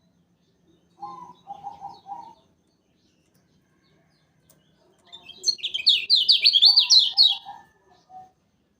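Kecial kuning, a Lombok white-eye, singing: a short phrase of lower warbled notes, then a loud rapid string of about ten high, falling whistled notes over a couple of seconds, with lower notes mixed in beneath.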